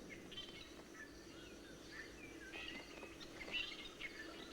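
Forest birds chirping and calling: many short, separate calls and small whistled glides, over a faint steady hum.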